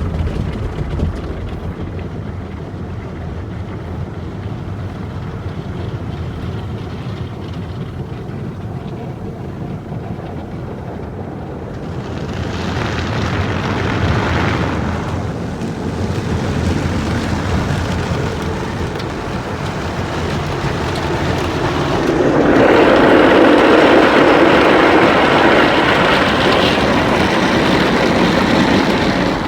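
Belanger FreeStyler automatic car wash running around the car: a steady machine rumble, with a brief rush of spray hitting the car about 12 seconds in and a louder, longer rush from about 22 seconds in.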